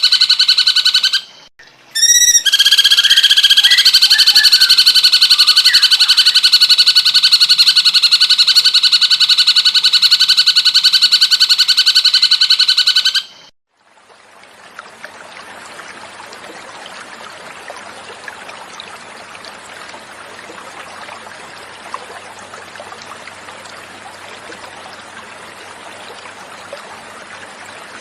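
Recorded cucak cungkok song: a loud, fast, even trill, broken by a short pause about a second in, that cuts off suddenly about halfway through. It is followed by the softer, steady sound of flowing water.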